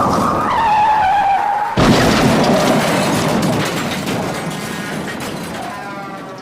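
Car tyres screeching in a skid, then a sudden loud collision impact a little under two seconds in, followed by crunching noise that slowly dies away.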